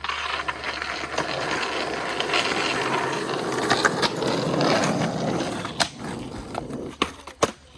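Skateboard wheels rolling over rough pavement with a rattling sound, followed by a few sharp clacks of the board near the end.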